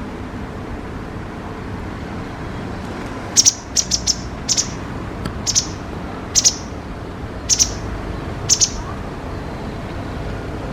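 Wagtail calling: short, sharp high chirps, singly and in quick pairs, about eight in all from about three seconds in. A steady low rushing noise runs underneath.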